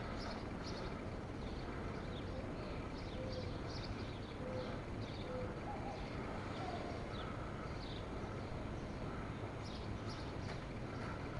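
Faint outdoor ambience with small birds chirping: short high chirps repeating throughout, and a run of four short, lower notes a few seconds in.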